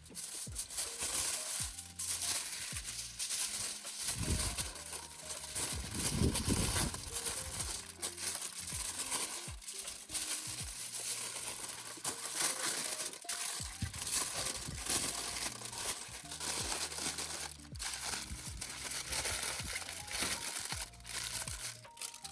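Aluminium foil being handled, crinkling and crackling throughout, over soft background music.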